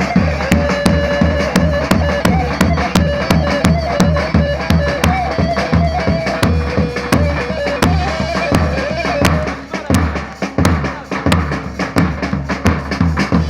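Halay dance music: a reedy, ornamented pipe melody over a steady bass drum beat. The melody drops out briefly about ten seconds in while the drum keeps going.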